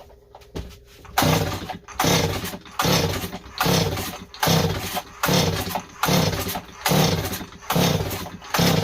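Stihl 026 chainsaw being pull-started: about ten quick, evenly spaced pulls of the recoil starter, one every second or less, cranking the engine over without it firing once.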